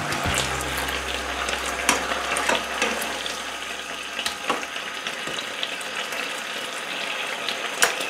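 Chicken breast slices sizzling in hot oil in a frying pan as they are turned over with kitchen tongs, with a few sharp clicks of the tongs against the pan.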